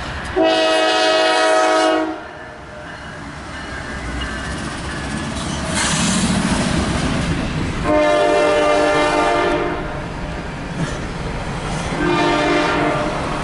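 Norfolk Southern freight locomotive's air horn sounding three blasts: a long one about half a second in, another long one around eight seconds in, and a shorter one near the end. Between blasts the train's running noise, with wheels clicking over rail joints, grows louder as it approaches.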